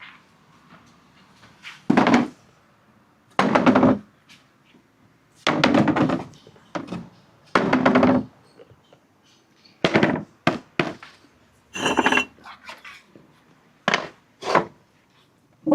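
Marbles clattering and rolling along a marble-run track in short, separate bursts, about nine in all, one every second or two, with quiet gaps between.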